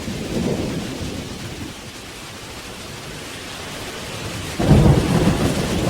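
Thunder rumbling over steady rain, with a sudden, much louder crack of thunder near the end.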